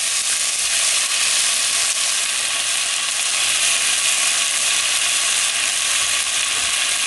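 Onion rings and peppers frying in hot oil in a stainless steel pan: a steady crackling sizzle, the oil jumping.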